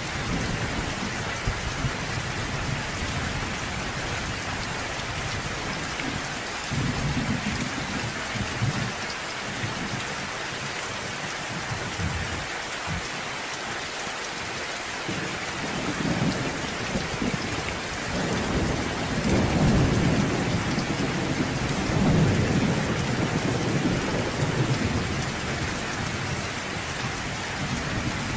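Steady rain falling, with thunder rumbling low underneath; the rumbles swell about a third of the way in and build again over the second half.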